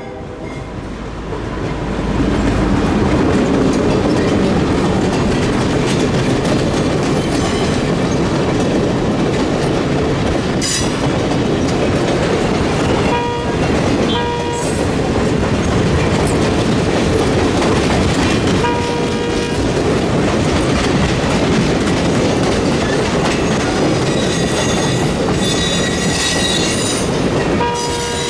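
Cuyahoga Valley Scenic Railroad passenger train rolling past close by, a steady loud rumble with wheels clattering over the rail joints. Brief steady squealing tones cut in a few times, and there are occasional sharp clicks.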